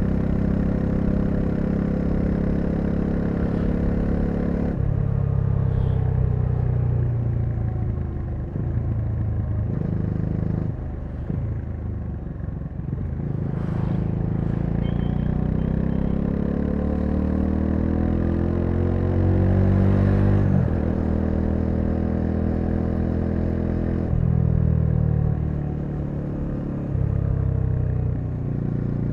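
Bajaj Dominar 400's single-cylinder engine running under way. Its pitch steps down about five seconds in, climbs steadily for several seconds past the middle, drops abruptly, and shifts again twice near the end.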